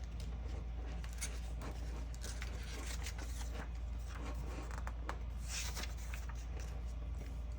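Plastic Lego pieces being handled and pressed together: faint scattered clicks and scratchy rustling, a few a second at most, over a steady low hum.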